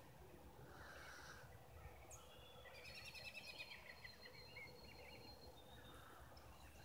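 Faint bird song over near-silent outdoor background: a run of rapid chattering notes with a thin held high whistle, lasting about two seconds near the middle.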